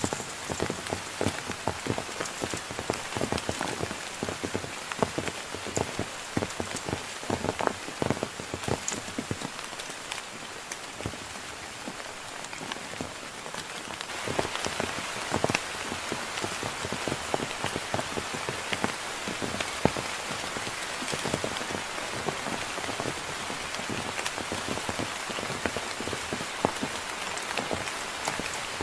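Heavy rain falling, with many separate drops striking close by over a steady hiss. It grows heavier and denser about halfway through.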